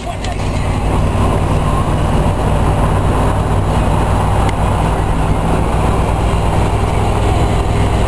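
A 1960 Chevy pickup's engine running steadily under way in a low gear, heard from inside the cab along with road noise.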